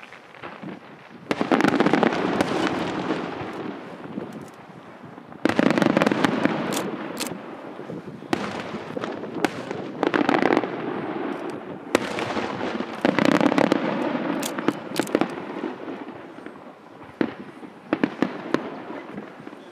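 Aerial firework shells bursting in a rapid sequence: a loud boom every few seconds, each dying away over a couple of seconds, with many sharp crackling pops in between.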